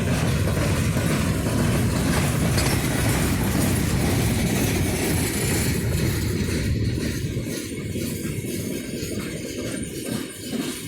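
Freight train cars of a grain train rolling past: a steady, loud rumble of wheels on rail with clicking over the rail joints. The rumble eases after about six seconds.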